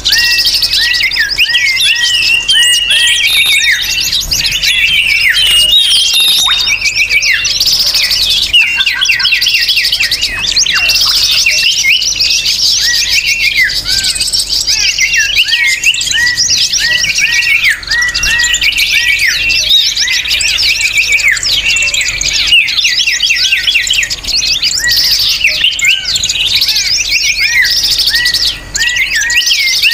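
Loud, dense chorus of many small songbirds chirping and twittering at once, with a short hooked call repeated again and again beneath the trills: a bird-lure (pikat) recording played to draw wild birds in.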